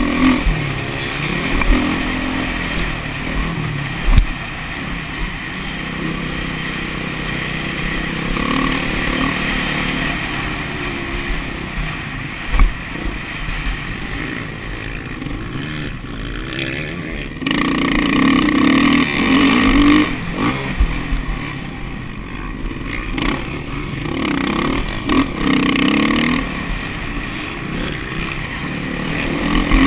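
Off-road motocross motorcycle engines running and revving up and down, with a louder stretch a little past halfway through.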